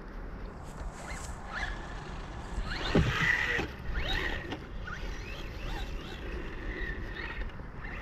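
Electric motor of a 1/18-scale RC truck whining in short bursts, its pitch rising and falling with the throttle, with a thump about three seconds in.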